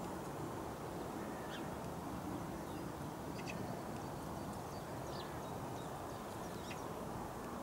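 A few short, faint high bird calls, scattered a second or two apart, over a steady low rumble of background noise.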